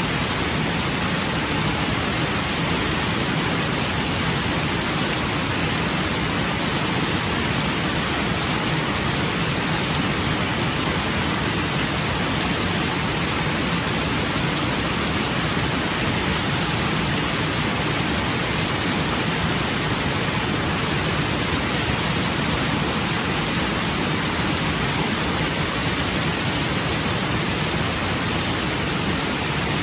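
Steady rain falling, a constant even hiss without breaks.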